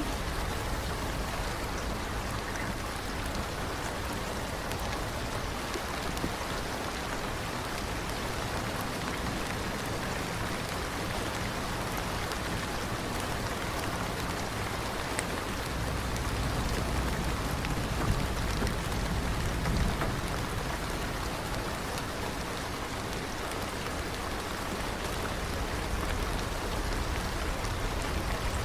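Steady rain falling on a surface, a dense even hiss with scattered individual drop ticks and a low rumble underneath.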